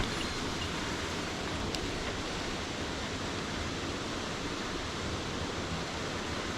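Steady rush of falling water, an even hiss without let-up.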